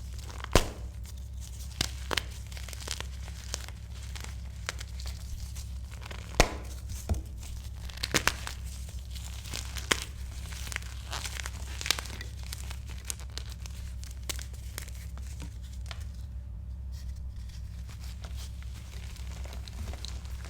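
Blocks of re-formed gym chalk being crushed, a run of dry crackles and crunches with a few sharper snaps, the loudest about six seconds in. The crunching thins out over the second half, over a steady low hum.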